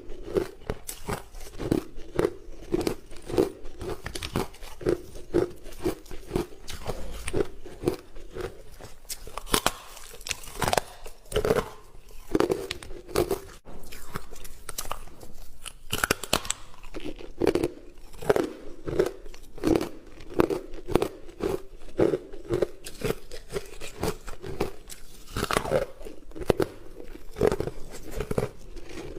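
Hard frozen ice being bitten and chewed close to the microphone: loud, sharp cracks as pieces snap, between steady, rhythmic crunching chews.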